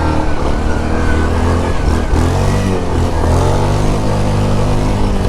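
Yamaha Grizzly 700 ATV's single-cylinder engine running while being ridden, its pitch dipping and rising several times as the throttle changes.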